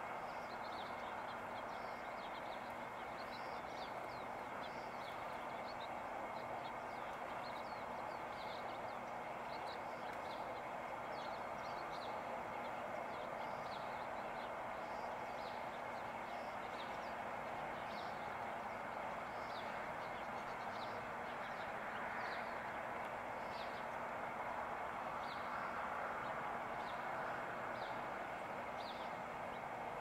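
Short high chirps of small birds, repeating every second or so, over a steady even rush of background noise.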